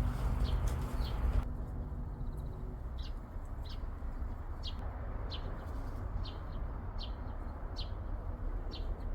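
A small songbird giving short, high chirps, repeated about once a second, over a low rumble. The tail of background music stops about a second and a half in.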